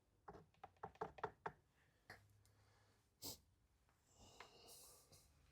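Faint light clicks and taps, a quick run of them in the first second and a half, then a few single knocks and a brief rustle near the end: tools and small parts being handled against the plastic housing of a Stihl MS180c chainsaw during disassembly.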